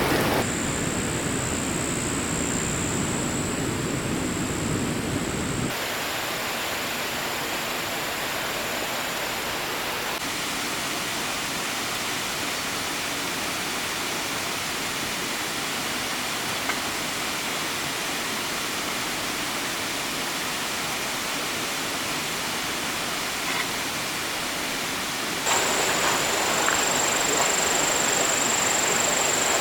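A stream running steadily, an even rushing hiss. A thin, steady high whine lies over it for the first few seconds and again near the end.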